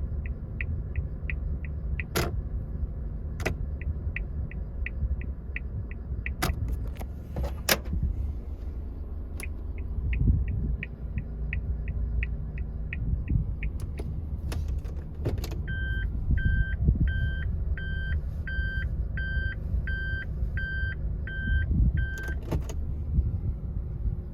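Suzuki Spacia Custom (MK32S) idling, with the indicator relay ticking evenly in two runs (turn signal, then hazard lights) and switches clicking between them. From about 16 s to 22 s the reverse-gear warning beeps, about two short beeps a second.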